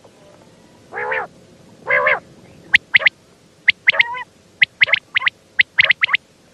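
Female common quail calling: two longer nasal notes about a second and two seconds in, followed by a run of short, sharp high notes in pairs and threes.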